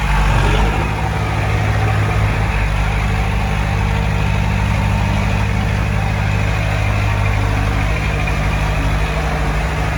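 Heavy earthmoving machine's diesel engine running steadily at low revs.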